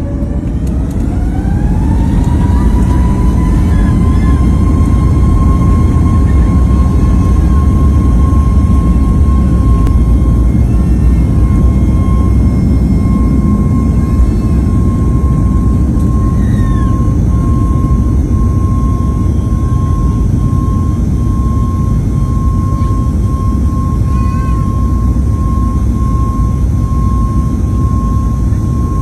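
Airbus A350's Rolls-Royce Trent XWB turbofans spooling up to takeoff thrust. The whine rises over the first couple of seconds, then holds as a steady high whine over a loud, continuous rumble.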